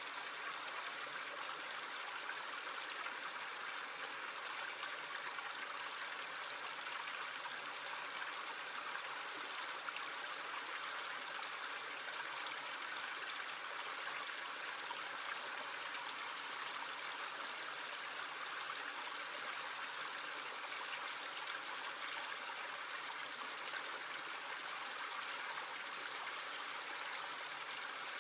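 A small stream running, a steady rush and babble of water.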